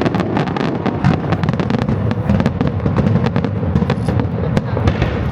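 Aerial fireworks going off in quick succession: a dense run of crackling pops and bangs over a steady low rumble.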